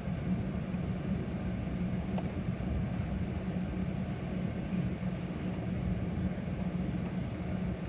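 Metra commuter train running between stations, heard from inside the passenger car as a steady low rumble and hum.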